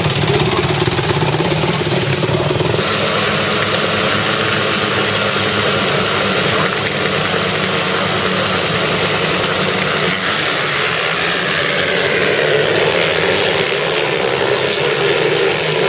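Motocross bike engines running steadily under a constant hiss.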